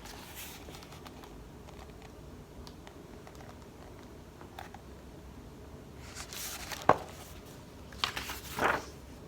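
Paper handling of a picture book during a pause in the reading: quiet room tone, then a soft rustle about six seconds in, a single sharp tap just before seven seconds, and more rustling near the end.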